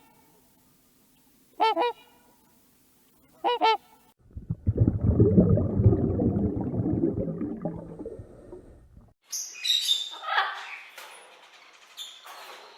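A goose honking twice in the first few seconds, each honk short. Then a low, rough animal call lasts about five seconds, followed near the end by high chirping bird calls.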